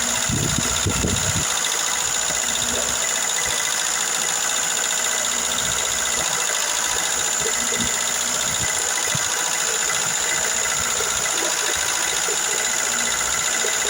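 Car engine idling steadily with ticking from noisy hydraulic lifters.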